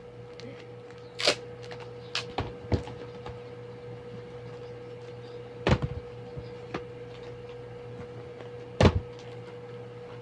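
Several short, sharp clicks and knocks from handling paper, tape and foam while crafting paper squishies, the loudest two near the middle and near the end, over a steady electrical hum.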